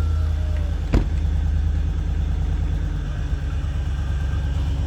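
Car engine idling steadily, with one sharp click about a second in.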